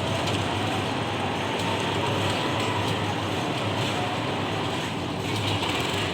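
Continuous construction machinery noise: a steady mechanical drone with a low hum and a faint whine that slowly shifts in pitch.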